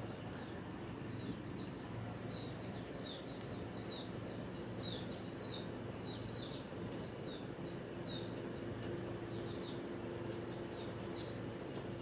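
A bird chirping: a long series of quick, faint, falling chirps, with two sharp clicks about nine seconds in and a low hum underneath.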